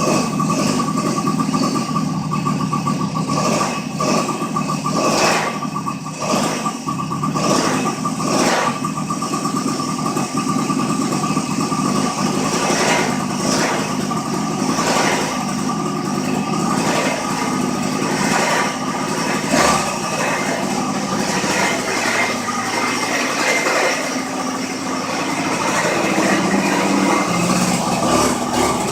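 Pocket bike's small two-stroke engine running steadily.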